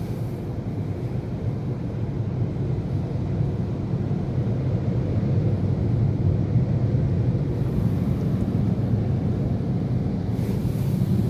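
Istobal M'Wash 3 Pro car wash machine running: a steady low rumble that grows slightly louder, with a brief rise in hiss near the end.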